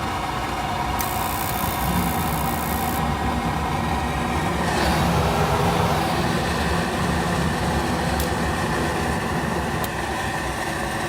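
Goodman gas package unit running with a steady motor hum and whine, most likely its draft inducer and fan motors. A brief high hiss comes in about a second in and stops a couple of seconds later.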